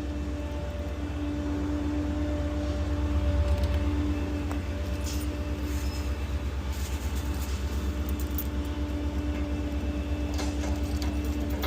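Ford F-550 rear-loader garbage truck's engine running: a steady low rumble with a constant hum, swelling a little about three seconds in. A few light metallic clicks and jingles sound over it in the second half.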